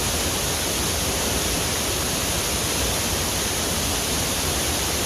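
Waterfall in heavy flow: a steady rush of falling water.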